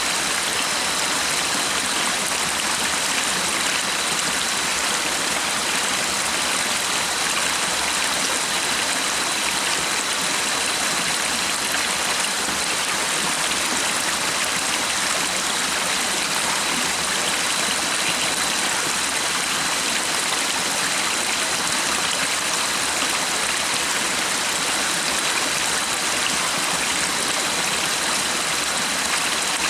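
Stream water running with a steady, unbroken rush, along with a faint steady high tone.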